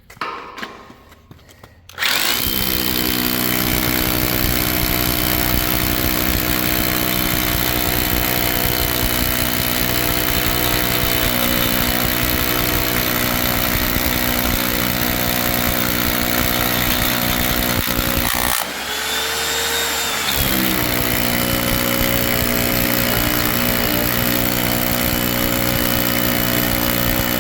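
Hilti rotary hammer drill boring a deep anchor hole into a concrete floor, starting about two seconds in and running steadily. About two-thirds of the way through it briefly eases off, its pitch dipping and rising, then runs on.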